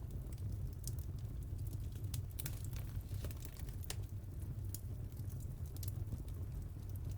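Fireplace fire crackling, with scattered sharp pops over a steady low rumble of the flames.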